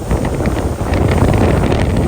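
Wind buffeting the microphone aboard a boat at sea, a loud rushing with scattered short sharp ticks.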